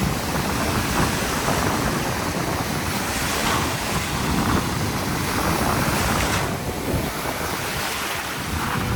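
Rough ocean surf breaking steadily, with wind rumbling on the microphone.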